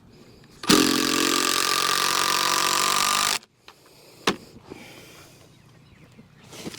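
A loud motor-driven machine runs steadily for nearly three seconds, starting and stopping abruptly. A sharp knock follows about a second later.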